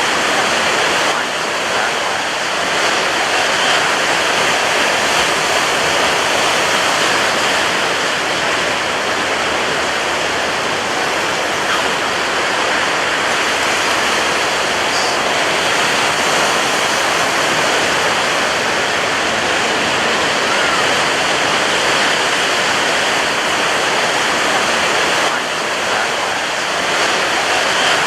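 Ocean surf on a beach: a loud, steady rush of breaking waves with no separate crashes standing out, only slight dips in level about a second in and near the end.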